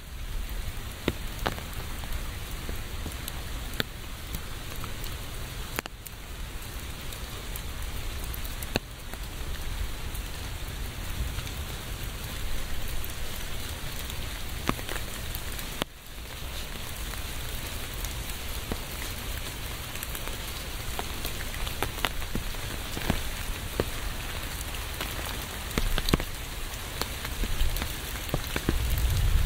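Steady rain falling: an even hiss dotted with many sharp ticks of single drops striking, over a low rumble.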